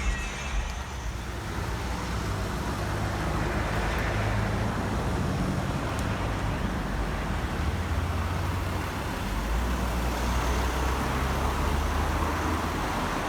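Road vehicle noise: a steady low rumble with tyre and road hiss, swelling about four seconds in and again near the end.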